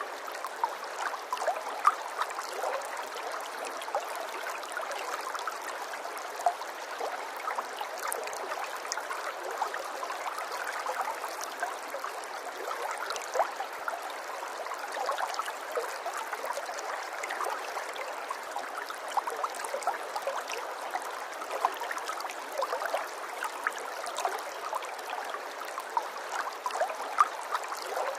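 Running water trickling steadily, with many small splashes and gurgles throughout.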